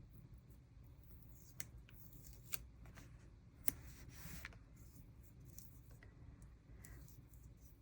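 Scissors snipping sticker paper: three quiet snips about a second apart, then a short rustle of paper.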